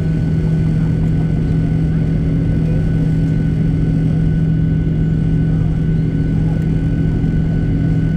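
Boeing 737-800's CFM56-7B jet engines running with a steady drone and a strong constant low hum, unchanging in pitch and level.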